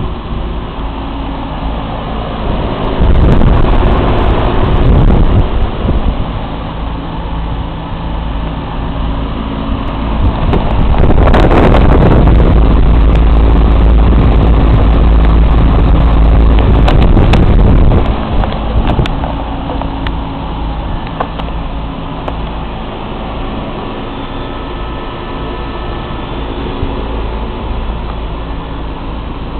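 Bryant HVAC unit running, its three-blade fan and motor giving a steady hum. Two stretches of loud low rumble lie over it, about three to six seconds in and from about eleven to eighteen seconds.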